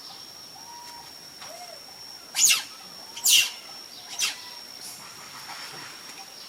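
Monkey giving three short, shrill calls about a second apart, each falling sharply in pitch, the first two the loudest. A steady high-pitched whine runs underneath.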